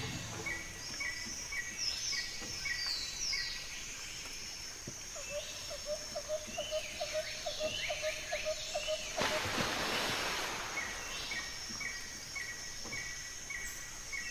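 Birds chirping: a steady series of short repeated high notes with other sliding calls over them, and a lower run of quick chirps in the middle. A short rush of hissing noise about nine seconds in.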